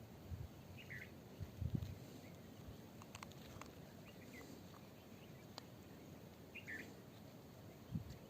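Faint outdoor ambience with two short bird chirps, a few sharp clicks and a couple of soft low thumps.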